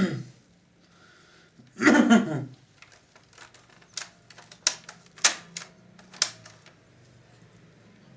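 A brief unworded vocal sound about two seconds in, then a run of sharp, irregularly spaced clicks and light taps from handling the plastic parts of a vintage radio cassette recorder being taken apart.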